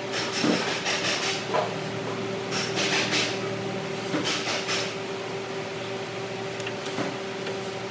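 Factory workshop machinery: a steady hum with irregular clatter and short hissing noises over it.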